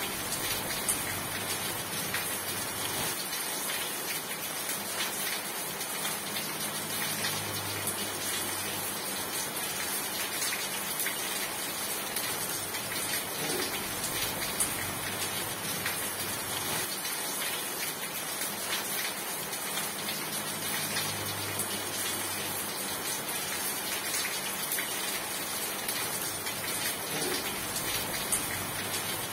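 Steady rain, an even, unbroken hiss of drops falling on a surface.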